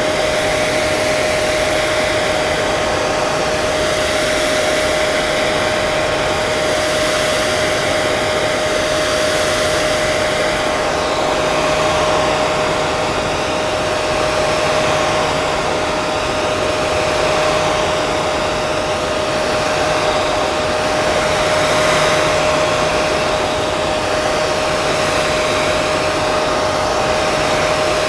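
Hair dryer running continuously, a steady dense rush of blown air with a constant whine from the motor and fan. The rush swells and eases slightly every few seconds.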